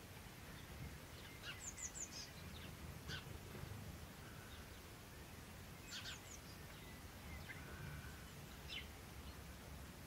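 Faint wild birds calling: scattered short, high chirps, a quick run of three about a second and a half in, then single chirps around three seconds, six seconds and near the end, over a low steady rumble.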